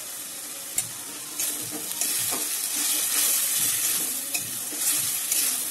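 Spice paste frying in oil in a metal kadai, sizzling with a splash of water just added to keep it from burning, while a steel spatula stirs and scrapes it around the pan. The sizzle grows louder about a second and a half in.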